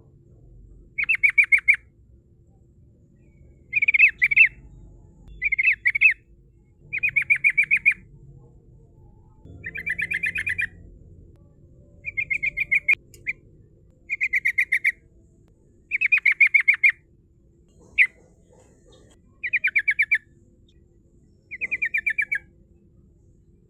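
Yellow-vented bulbul (trucukan) singing its rolling song: short bursts of quick, rapidly repeated bubbly notes, about ten phrases each under a second long, coming every couple of seconds.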